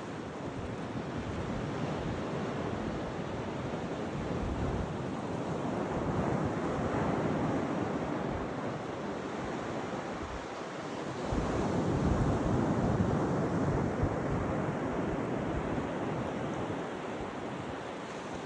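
Ocean waves washing over a sandbar, with wind buffeting the microphone. The wind and surf swell louder about six seconds in and again, loudest, about eleven seconds in.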